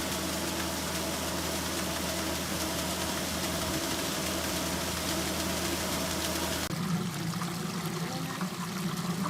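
Concrete pump truck's diesel engine running steadily under a broad rushing noise while it pumps out floodwater. About two-thirds of the way in the sound changes abruptly to a lower, rougher engine hum.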